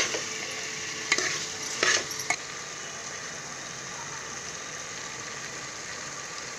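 Mutton masala sizzling as it fries in oil in an aluminium pressure cooker, with a metal ladle scraping the pot three times in the first couple of seconds; after that, only an even sizzle.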